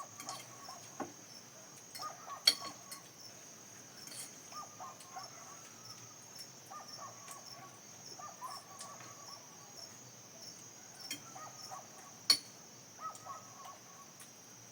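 Steady high-pitched chorus of insects such as crickets, with faint short calls repeating about once a second and a few sharp clicks, the loudest near the end.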